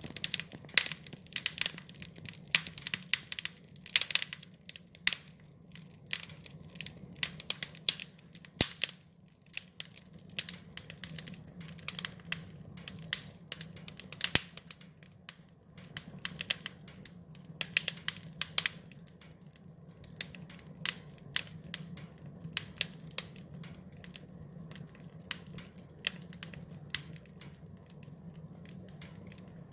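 Wood fire crackling: irregular sharp pops and snaps, several a second, over a low steady hum.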